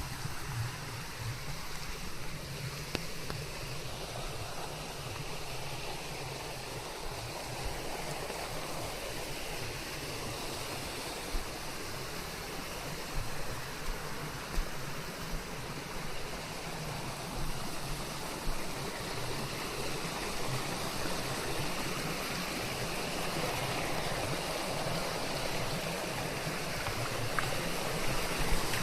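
Steady rain: an even rushing hiss of falling water, with a few louder drops or splashes standing out now and then.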